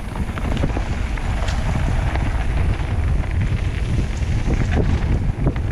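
Wind buffeting the microphone of a mountain bike riding down a trail, with the clatter and knocks of the bike over rough ground.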